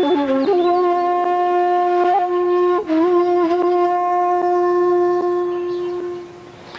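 Shakuhachi bamboo flute playing long held notes, each begun with a breathy attack, with a short break and slight pitch bend about three seconds in; the last note fades away near the end.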